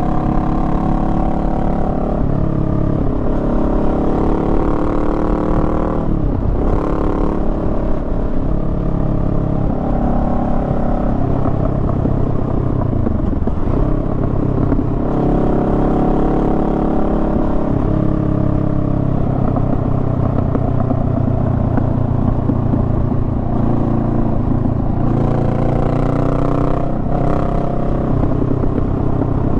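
Honda Rebel 500's parallel-twin engine running on the road, its pitch climbing and dropping repeatedly with throttle and gear changes, including falling dips about six and thirteen seconds in.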